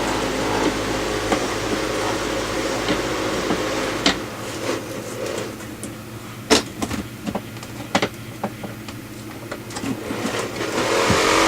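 A steady mechanical hum for about the first four seconds, then scattered knocks and clicks of hands and tools working on the wooden cabinet framing as it is taken apart.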